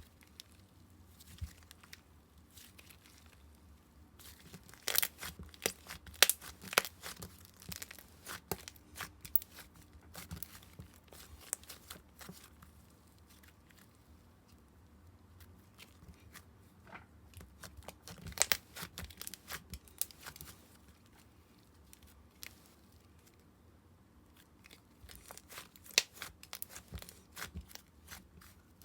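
Slime being handled: groups of sticky clicks, pops and crackles, with quieter pauses between the bursts.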